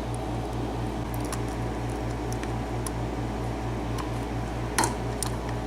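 Faint, sparse clicks of a lock pick and tension wrench working the pins of a five-pin mortise lock cylinder, with one louder click a little before the end. A steady low mechanical hum, pulsing several times a second, runs underneath.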